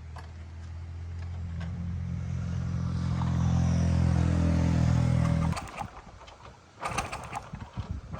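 Small motorbike engine running at a steady idle, getting louder, then cut off abruptly about five and a half seconds in. A few sharp metallic clanks follow near the end.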